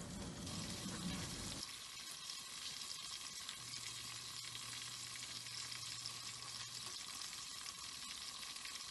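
Beef and leek pancakes steam-frying in oil and added water in a covered pan: a steady sizzle. A low rumble under it cuts off about a second and a half in.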